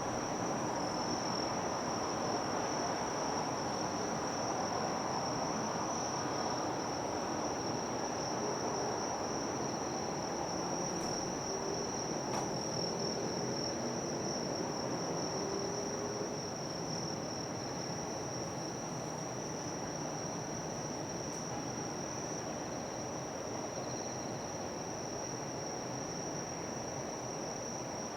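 Insects chirring in one unbroken high-pitched buzz over steady outdoor background noise.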